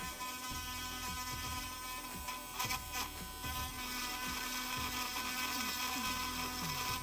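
Small rotary drill running steadily with a high whine as it grinds rust and loose paint out of a stone chip in car paint, with a few sharp ticks of the bit about two and a half to three and a half seconds in.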